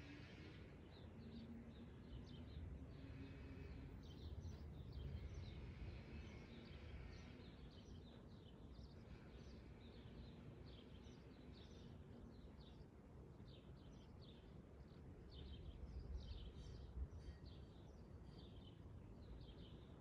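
Faint birdsong: many short, high chirps repeating throughout, denser in the second half, over a low, steady rumble.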